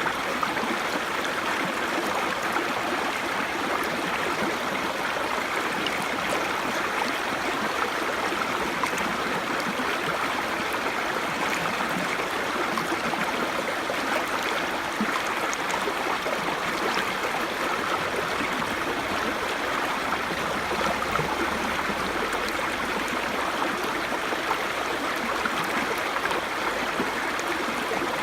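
Small brook babbling over stones: a steady, even rush of flowing water with fine gurgling and trickling texture.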